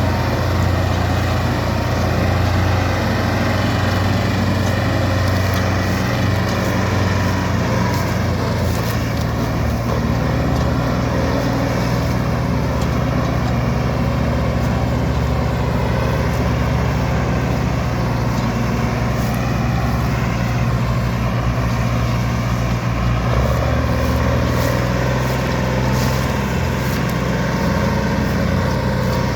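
Diesel tractor engine running steadily under load while pulling a loaded sugarcane trailer through mud.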